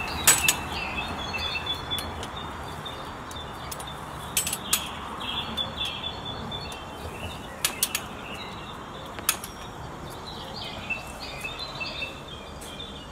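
Small birds chirping on and off, short high calls over a faint steady outdoor hiss, with a few sharp clicks or knocks scattered through.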